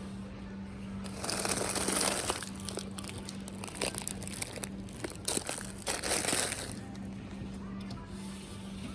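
Packaging crinkling in two spells, the first starting about a second in and the second near six seconds in, with light clicks and taps between. A faint steady low hum runs underneath.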